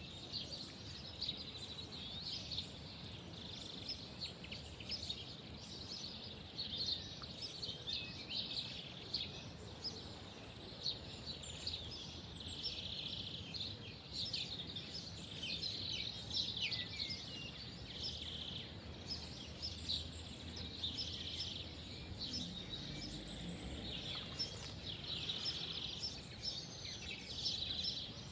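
Many small songbirds chirping and twittering continuously, in quick overlapping calls, over a faint steady low background rumble.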